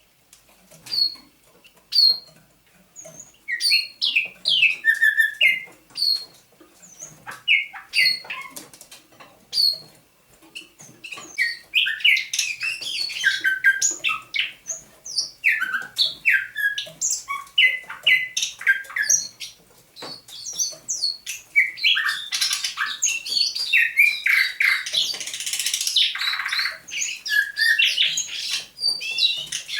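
Thrush nightingale singing: separate phrases of sharp clicks and short whistled notes, with a dense rattling phrase about three quarters of the way through.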